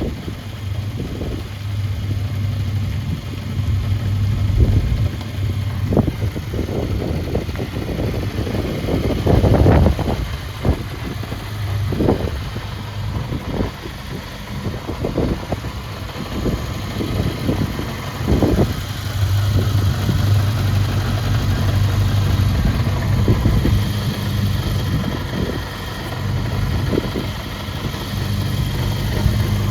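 Suzuki GSX400F's 398 cc inline-four engine idling through an aftermarket exhaust, with a few short throttle blips.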